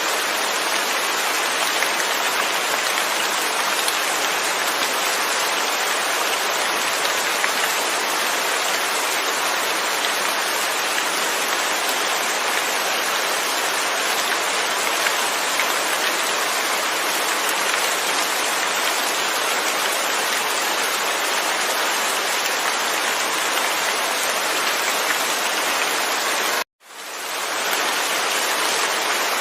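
Steady rain falling, with no thunder. About 27 s in, the sound cuts out suddenly and fades back in over about a second, like a loop join in the recording.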